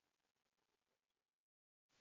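Near silence: a very faint hiss that drops out to dead silence about one and a half seconds in.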